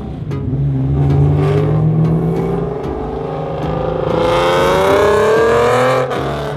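A car engine running, then revving up with a steadily rising pitch from about four seconds in, easing off abruptly near six seconds.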